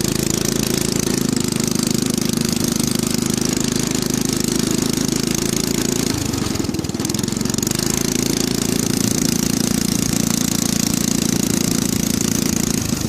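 Go-kart's small engine running loud through a modified exhaust pipe in place of its muffler. About six seconds in the engine note drops and turns rough for a moment, as the throttle is let off, then steadies again.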